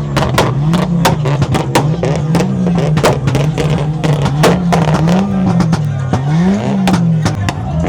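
Car engine revved hard and held high, its pitch rising and falling again and again about once a second, with many sharp pops and cracks over it, as in a drift car spinning.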